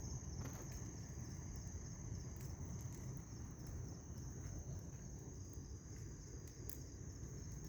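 Crickets trilling steadily over the low rumble of a burning bonfire, with a few faint crackles.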